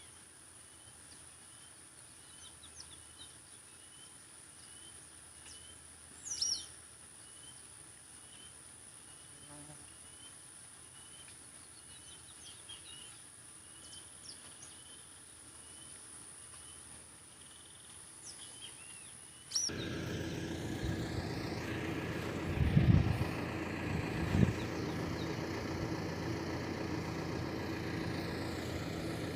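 Quiet rural outdoor ambience: a steady high-pitched insect drone with a short chirp repeating about once a second. About two-thirds of the way in it changes abruptly to a louder steady engine-like hum with two loud thumps.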